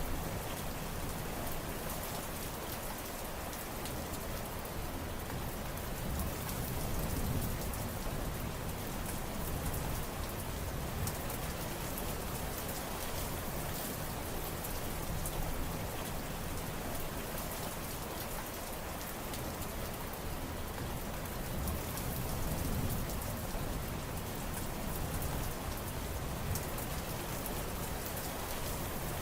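Steady heavy rain falling on surfaces, a dense even hiss with fine crisp drop ticks, swelling gently in a low rumble a few times.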